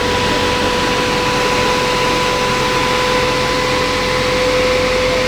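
A vehicle engine running steadily, with a constant whine held over the rumble.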